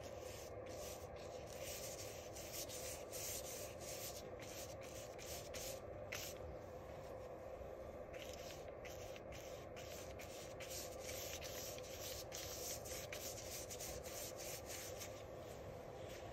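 Paintbrush bristles rubbing paint on in repeated strokes with brief pauses between them.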